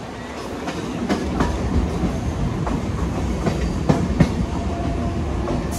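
Mumbai local train running: a steady low rumble that grows louder about a second in, with irregular clacks of the wheels passing over rail joints and points.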